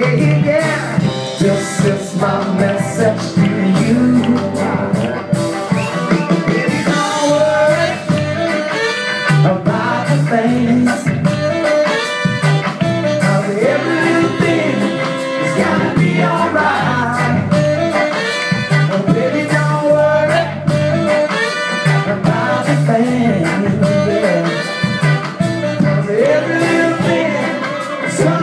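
Live band music, a reggae-style soul cover with a steady bass line, and a singer's voice and melody lines over it.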